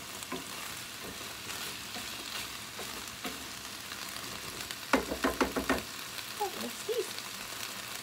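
Diced onion, carrots and potatoes frying in oil in a skillet with a steady sizzle. About five seconds in, a short run of knocks and scrapes as the vegetables are stirred in the pan.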